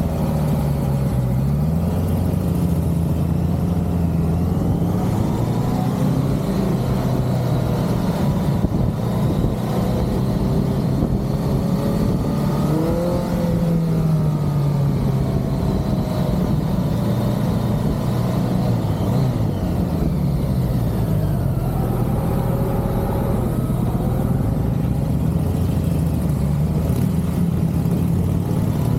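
1985 BMW K100's inline-four engine running under way, its note rising and falling several times as the throttle and speed change.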